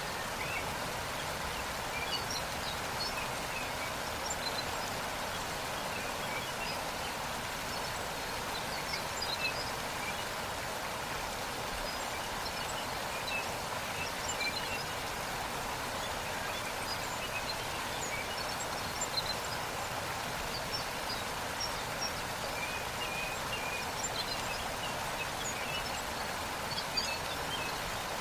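Steady rushing of a waterfall, with small bird chirps scattered throughout.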